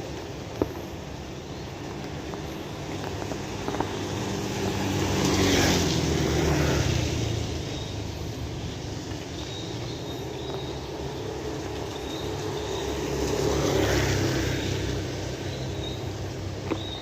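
Steady rain falling, with two vehicles passing by on the wet road, one about five seconds in and another about eight seconds later, each swelling up and fading away. A few sharp drip-like clicks stand out.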